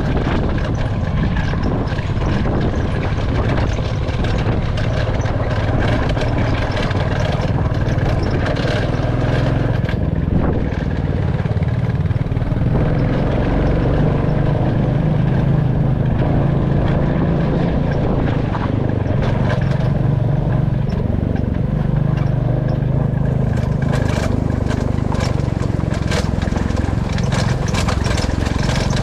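Royal Enfield Classic 350 single-cylinder motorcycle engine and exhaust running steadily under way, with frequent short bursts of noise over it.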